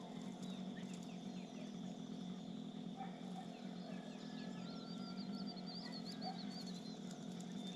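Small birds chirping, with a quick twittering run a little past the middle, over a steady low hum and a steady high-pitched drone.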